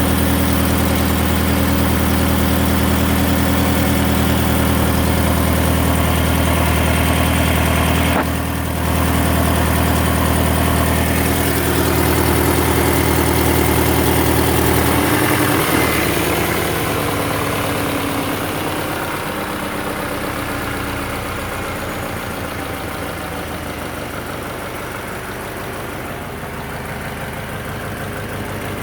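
Subaru BRZ flat-four engine idling, with an exhaust noise that the owner calls bad. Steady at first with a brief dip about eight seconds in; about halfway through the deep hum drops away and the sound grows gradually quieter.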